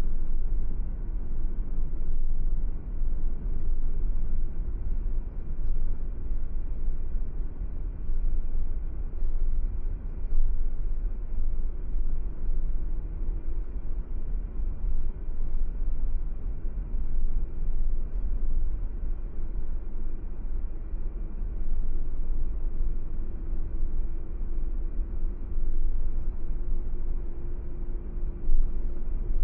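Car driving at a steady pace: a continuous low rumble of road and engine noise with a faint steady hum.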